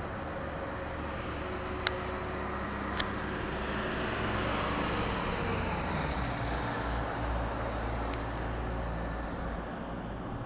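A vehicle passing by: a steady rumble that swells to a peak mid-way and falls away, its pitch sliding down as it passes, with two sharp clicks early on.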